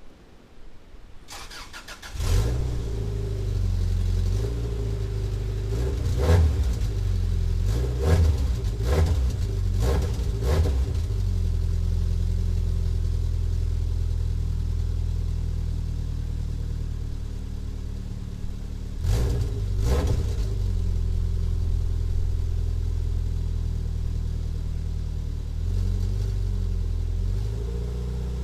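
Subaru Legacy's flat-four boxer engine, its exhaust nearly fallen off, starting about two seconds in and settling into an idle. It is revved several times in quick succession a few seconds later, then idles with another couple of blips later on.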